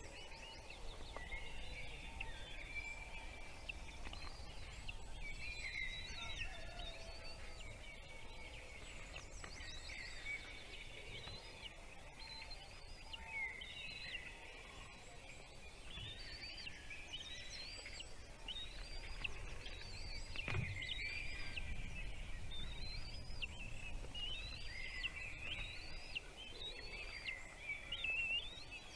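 Small birds chirping: a dense run of short, high chirps, many of them quick rising-and-falling notes, busier in the second half. One dull bump about two-thirds of the way in.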